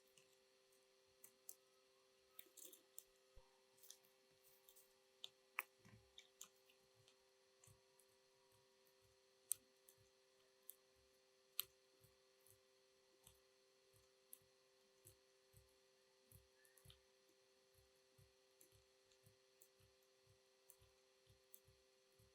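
Near silence: faint, scattered small clicks and light knocks over a steady low hum.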